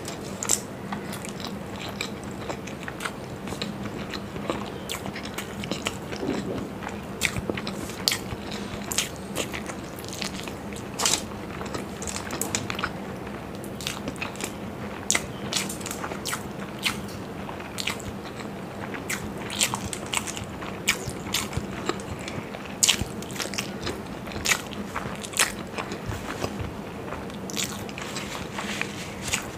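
Close-miked chewing and biting of masala-fried hard-boiled eggs, with many irregular sharp mouth clicks.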